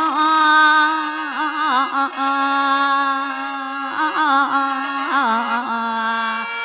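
Mor lam singing: one voice holding a long, wavering, ornamented vowel, with turns on each note, over the steady drone of a khaen (bamboo mouth organ).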